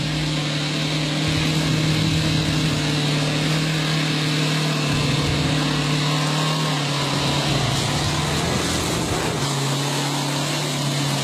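Dacia Duster 4x4's engine running under load in the mud, a steady drone that drops slightly in pitch in the second half.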